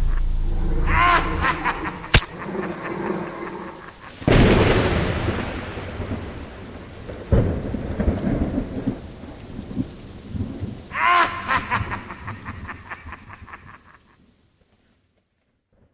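Horror sound-effect storm: a sharp crack, then a loud thunderclap about four seconds in that rumbles away over several seconds, with another clap a few seconds later, over steady rain. A brief wavering pitched sound comes twice, near the start and near the end, and the whole track fades out before the end.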